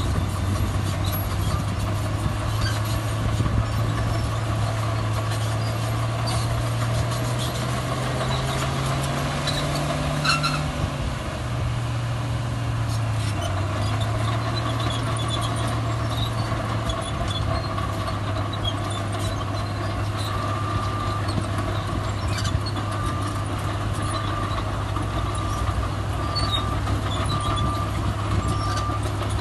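Heavy diesel earthmoving machinery running steadily. Its engine revs up gradually, about a third of the way in, then settles back. From about two-thirds through, a reversing alarm beeps about once a second.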